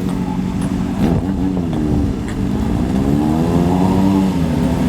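Motorcycle engines running with a steady low drone while the revs rise and fall twice, as bikes ride in.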